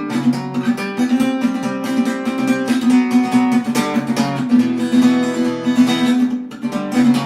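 Acoustic guitar strummed in a steady rhythm, playing the song's chords with no singing.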